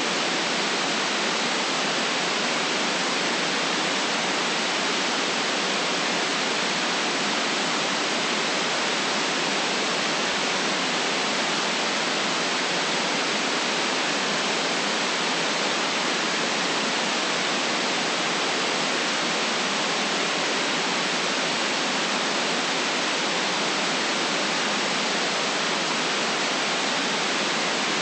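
Steady white noise: an even, unbroken hiss with no low rumble and the highest treble cut off, at a constant level with no individual events.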